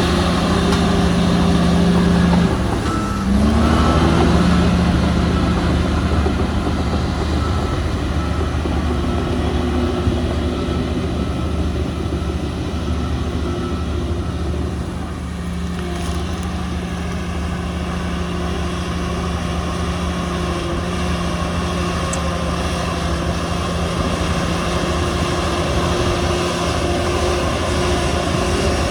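Heavy diesel earthmoving machinery running steadily under load. The engine note dips and picks back up about three seconds in, and a repeating beep sounds for several seconds after that.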